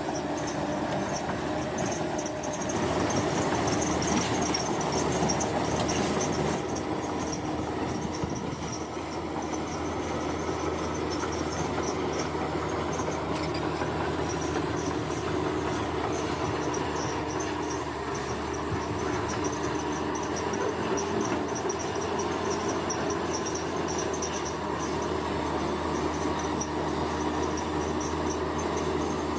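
Bulldozer working: its diesel engine runs steadily under load while its steel tracks keep up a high, rapid clattering chatter as it pushes wet sand. It grows louder for a few seconds about three seconds in, then settles back.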